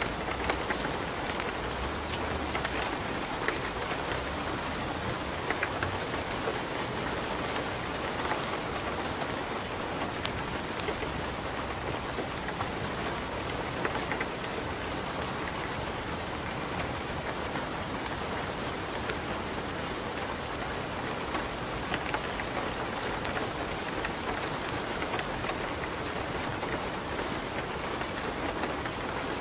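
Wood fire crackling in a fireplace: a steady hiss with many scattered sharp pops and snaps.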